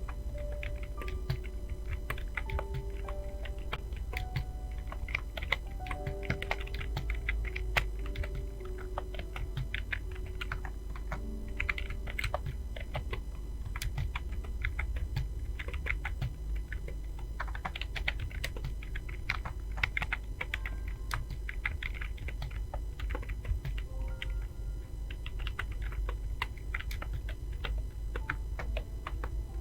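Fast, continuous typing on a computer keyboard: a dense, irregular patter of key clicks during a typing test. Soft background music notes sound under the typing, mostly in the first half.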